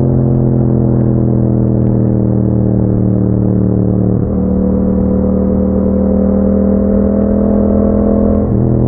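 Yamaha MT-07's 689 cc parallel-twin engine running through an Akrapovic exhaust while riding. The pitch sags slowly, breaks briefly about four seconds in, climbs slowly, then breaks again near the end.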